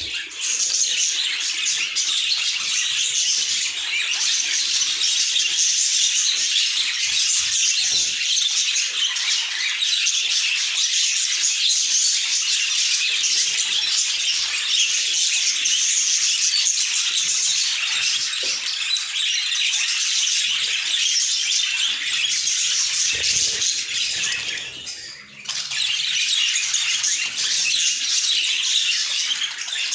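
Budgerigars chirping and chattering continuously, a dense warbling twitter with a brief lull about five seconds before the end.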